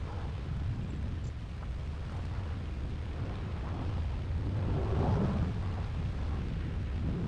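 Low, steady rumbling noise that swells about five seconds in.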